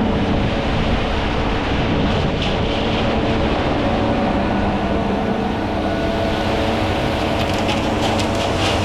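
Heavy engine running steadily at a constant speed, with some light clattering about three-quarters of the way through.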